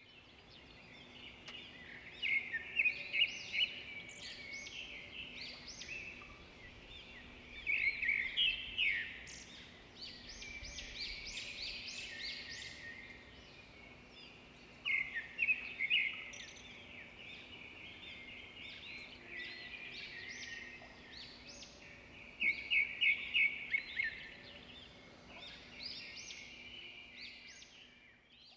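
Birds chirping and calling throughout, breaking four times into loud bursts of quick repeated notes, over a faint steady hum.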